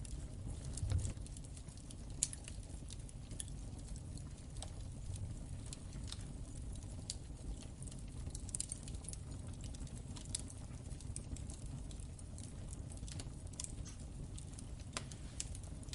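Wood fire in a fireplace crackling: irregular sharp pops and snaps over a steady low rumble, with louder pops about a second in and just after two seconds.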